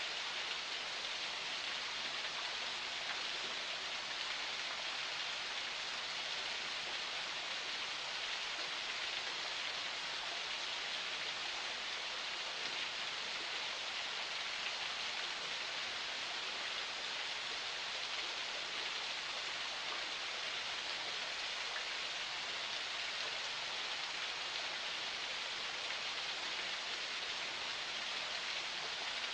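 Small forest spring flowing steadily over rocks: a constant splashing trickle of water without breaks.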